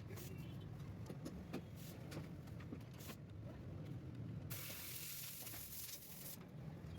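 A hissing spray, lasting about two seconds past the middle, over a steady low hum and a few faint clicks.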